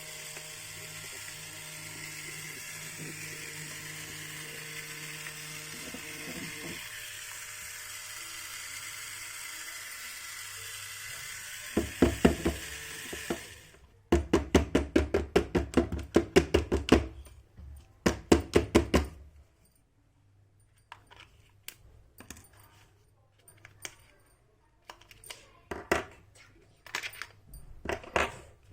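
A small motor whirring steadily, which cuts off suddenly about halfway through. Then a run of rapid hard clicking and rattling, about four clicks a second for several seconds, followed by scattered lighter clicks and taps.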